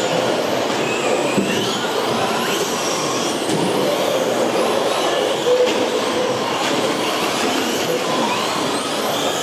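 Several electric 1/10-scale RC short course and stadium trucks racing together, their motors whining, each whine rising and falling as the trucks accelerate and brake, over a steady wash of noise.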